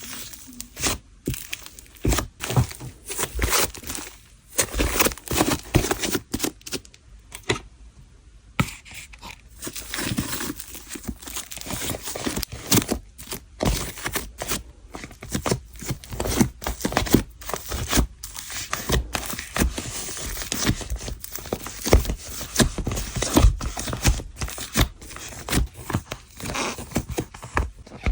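Jelly cream slime being squished, stretched and poked by hand, giving a rapid, irregular series of sharp clicks and pops.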